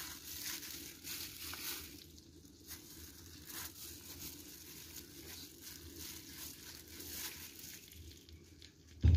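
Ham and cheese sandwiches frying in melted butter in a metal wok: a soft, crackly sizzle, with some crinkling of a plastic food glove while the sandwiches are set down. A sharp metal clink comes right at the end.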